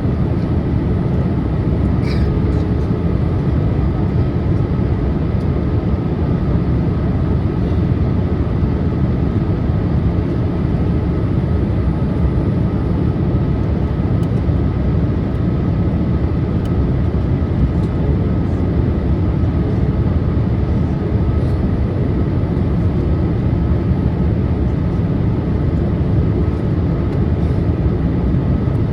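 Steady in-flight cabin noise of a Boeing 787-8 airliner on approach: a deep, even rush of engines and airflow, with a faint steady whine on top.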